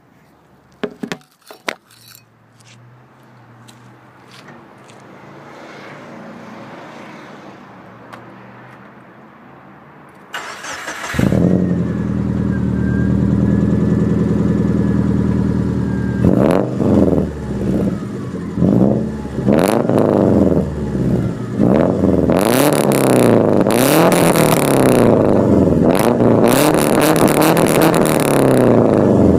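2000 Subaru Impreza 2.5RS's 2.5-litre flat-four engine, breathing through an AEM cold air intake and a Magnaflow exhaust, cranks and starts about ten seconds in after a few clicks. It idles steadily for a few seconds, then is revved again and again, the pitch rising and falling, with the blips coming faster and louder near the end.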